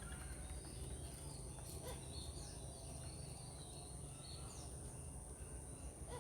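Faint outdoor ambience: a low rumble and a steady high-pitched whine, with a few faint, short bird chirps in the middle.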